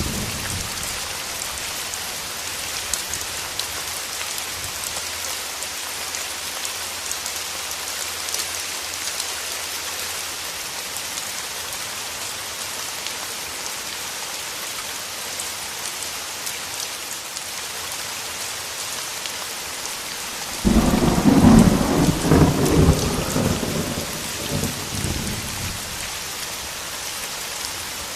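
Steady rain, with a sudden crack of thunder about three-quarters of the way in that rumbles for a few seconds and then dies away under the rain.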